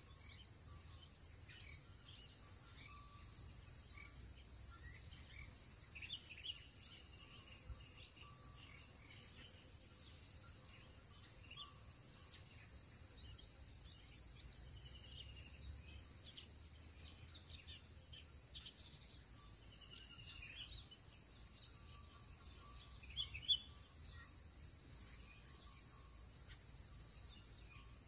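Steady, high-pitched insect trill, slightly pulsing, with faint short chirps scattered through it.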